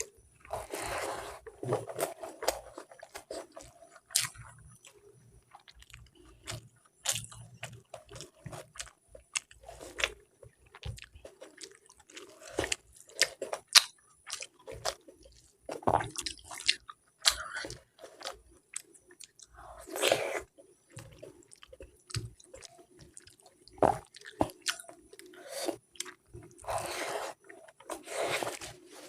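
A person chewing and biting food close to the microphone, with irregular crunches and wet mouth clicks, a few bites louder than the rest.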